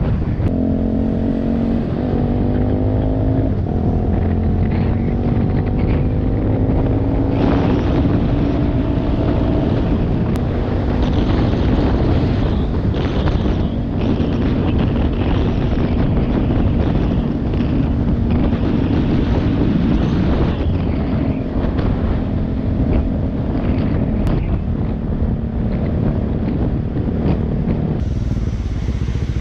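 Motorcycle engine under way, its pitch rising and dropping back at each gear change in the first several seconds, then running at a steady cruise. Wind buffets the microphone throughout.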